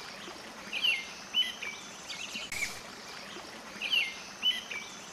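Short bird chirps in pairs, about a second in and again near four seconds, the second pair the same shape as the first, with a brief hiss in between, over a steady background hiss.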